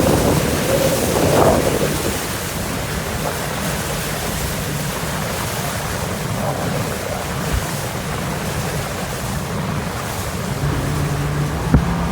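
Motorboat running across the lake: steady rush of wind on the microphone and water along the hull, with the engine's low hum coming up clearly again near the end. A single sharp knock sounds shortly before the end.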